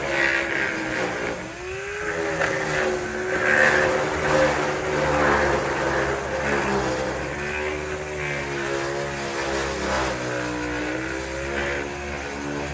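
Power tool motor running with a steady whine that dips in pitch briefly a couple of times and recovers, over a scratchy hiss, typical of sanding body work on a fender.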